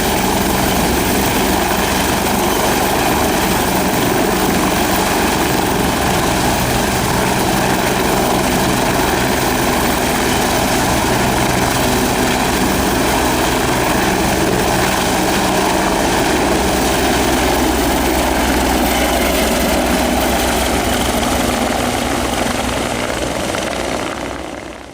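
Bell 430 twin-turbine helicopter running loud and steady, the turbine whine and rotor noise holding unchanged, then fading out near the end.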